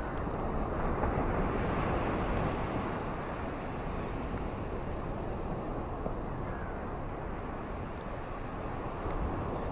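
Steady rain with wind, a dense even hiss without a break, swelling a little about a second in.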